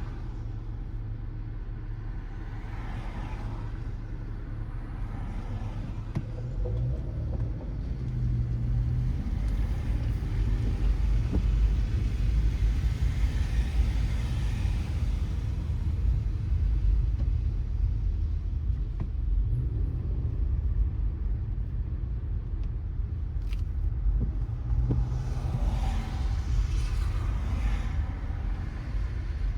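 Car driving on a wet city road: a steady low road and tyre rumble that grows louder about six seconds in, with the hiss of tyres on wet tarmac swelling and fading a few times.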